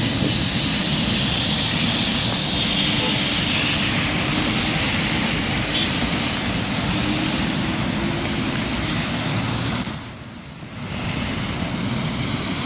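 Steady rush of heavy rain with road traffic on a wet road, a vehicle engine faintly audible under the noise. The sound dips briefly about ten seconds in.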